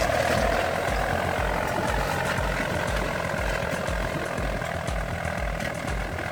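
Old Kubota tractor's diesel engine running steadily, with a low, even throb about three times a second.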